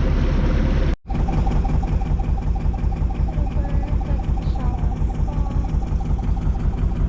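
Sailboat's inboard auxiliary engine running steadily with an even, rapid beat, heard on board while motoring. It cuts out abruptly for an instant about a second in, then carries on.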